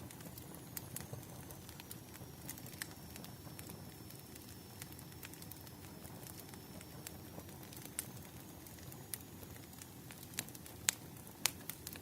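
Wood fire crackling: irregular sharp pops and snaps over a soft low rustle of flames, with a few louder pops near the end. A faint thin high whistle runs under it for most of the time.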